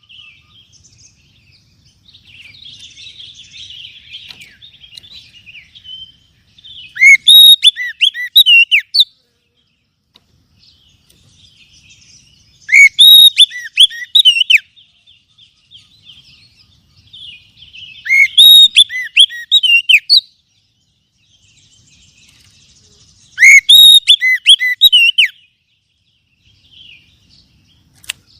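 Oriental magpie-robin (kacer) song: four loud phrases of sharp, swooping whistled notes, each about two seconds long and about five seconds apart, with softer chattering twitter between them.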